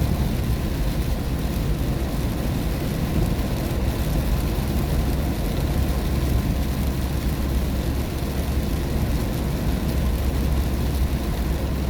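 Steady road noise inside a moving car driving in the rain: a low rumble of tyres and engine under an even hiss of rain and wet road.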